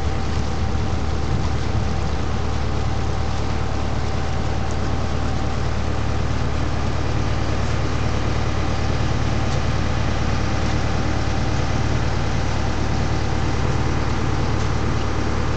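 Sightseeing boat's engine running steadily, a constant low drone heard on board, under a steady rush of wind and water noise.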